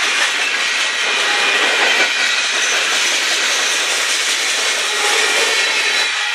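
Union Pacific freight train rolling past, a steady loud rush of steel wheels on rail.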